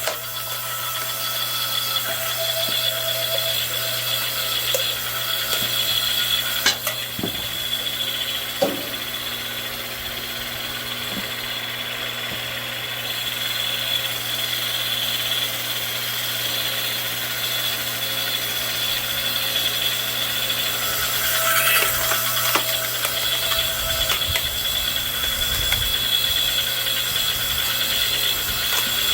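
Hydraulic log splitter running steadily on its engine while being tested, with a couple of sharp metallic knocks about a third of the way through.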